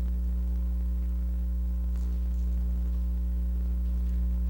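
Steady electrical mains hum with evenly spaced overtones, typical of a ground loop in the recording or sound system, with a few faint ticks.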